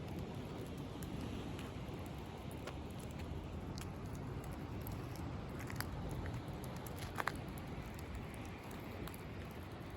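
Wood bonfire crackling with scattered sharp pops, the loudest a little before six seconds and around seven seconds in, over a steady wash of sea waves.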